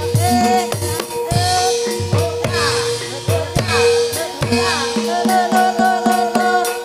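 Live accompaniment music for an ebeg (kuda kepang) horse dance: drums struck in a steady rhythm, about two strokes a second, over ringing held pitched tones.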